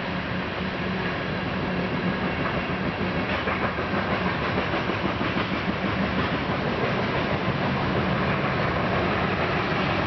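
Freight train cars rolling past close by, steel wheels clicking over rail joints over a continuous rumble and a steady low hum, growing slightly louder about two seconds in.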